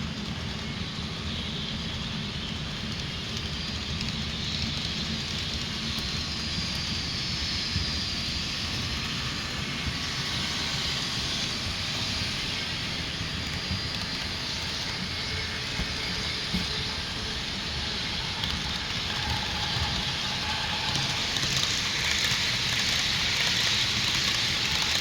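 HO-scale Rapido BART model train running along the track: a steady low rumble from the motors and wheels under a rushing hiss. The hiss grows louder near the end.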